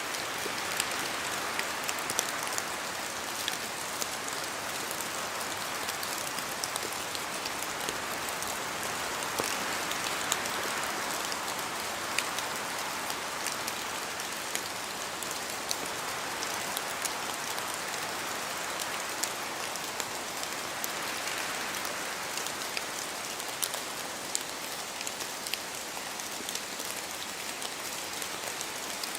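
Steady rain in a spruce forest, with many separate drops falling from the trees onto the ground below. A wider hiss, the wind in the spruces, swells and eases a few times.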